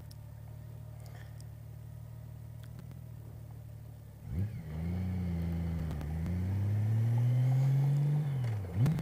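Honda Gold Wing GL1800's flat-six engine running low and steady, then about four seconds in pulling away: its pitch climbs, dips briefly at a gear change, climbs again and falls off near the end.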